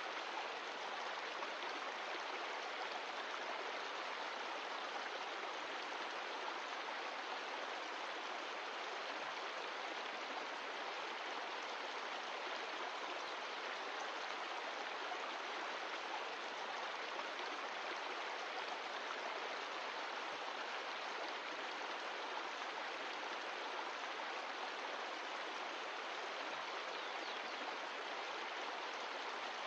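Mountain stream of glacial meltwater rushing and splashing steadily over rocks.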